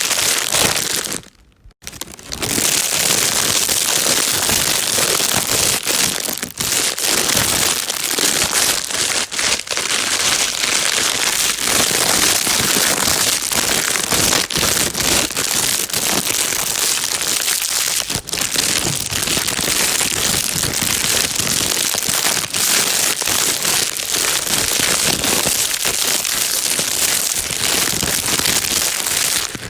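Plastic bag being crinkled and rustled continuously, a dense crackling with many sharp clicks, used as a baby-calming white noise. It breaks off briefly about a second in, then carries on without pause.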